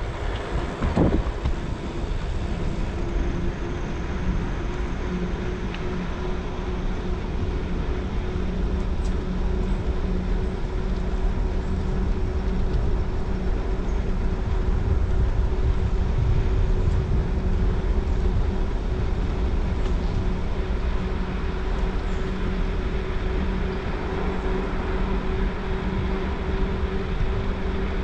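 Wind rushing over the microphone and bicycle tyres rolling on wet pavement as the bike runs downhill, with a faint steady hum.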